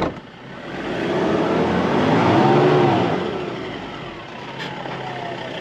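Four-wheel-drive ute's engine revving up under load and easing off as it strains to pull a caravan out of being bogged in soft sand. The revs climb to a peak about two and a half seconds in, then drop back to a steadier lower run with a falling whine near the end.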